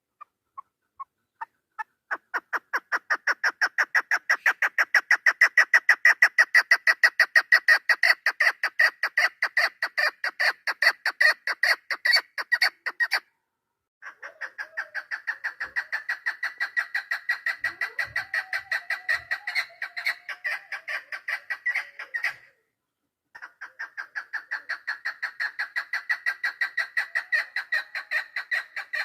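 Female chukar partridge calling, the hen's call used by hunters as a lure: a long run of rapid, repeated clucking notes that starts with a few spaced notes and quickens. It is broken by two short silences, about 13 and 22 seconds in.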